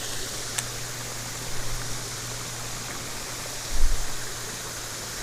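Creek water running steadily, an even rushing noise, with one low thump about four seconds in.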